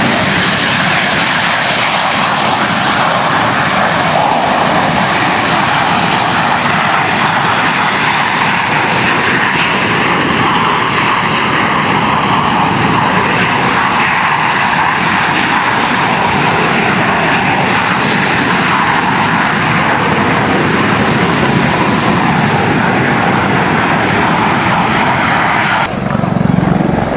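Airplane engine noise, loud and steady, with an abrupt change in the sound near the end.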